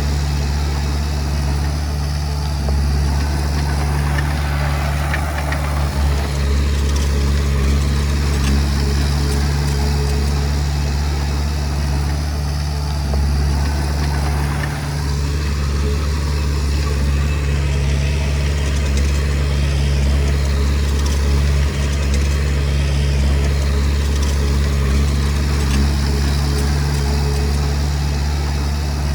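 Komatsu D20P bulldozer's diesel engine running steadily, a low, even drone that holds through with only slight changes in load.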